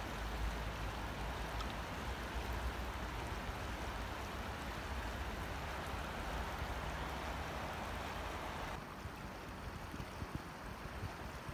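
Steady rushing noise with a low rumble underneath, dropping somewhat in level about nine seconds in.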